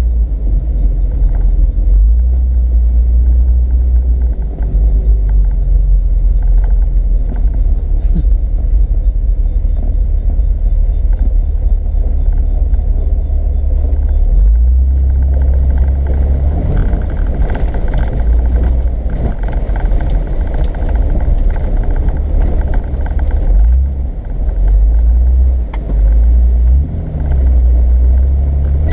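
Off-road vehicle driving a wet trail, a loud steady low rumble of engine and drivetrain. About halfway through, a rougher, noisier layer with rattles and clatter joins it.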